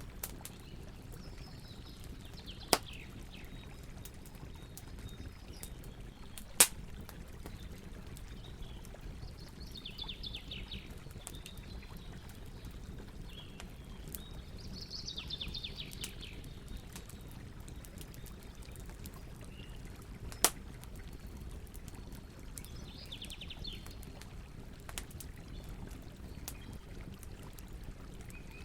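Campfire burning with a steady low rush and scattered faint crackles, and three sharp, loud pops about 3, 7 and 20 seconds in. Short, high rattling calls sound in the background a few times.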